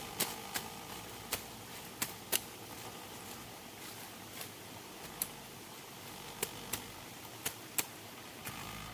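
Irregular sharp clicks or light taps, about a dozen, over a steady hiss.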